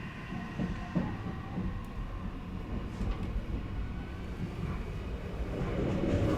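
Odakyu electric commuter train running on the rails: a steady low rumble of wheels and running gear with a few knocks from the track, growing louder toward the end.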